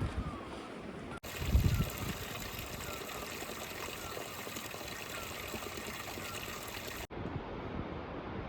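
Flowing stream water rushing and trickling steadily. The sound changes abruptly twice, at about one second and about seven seconds in, and a brief low rumble comes about a second and a half in.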